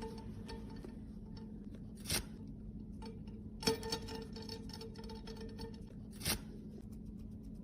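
Close handling of makeup cases and tools: three short taps or clicks, the second the loudest, with a couple of seconds of fine scratching after it, over a faint steady hum.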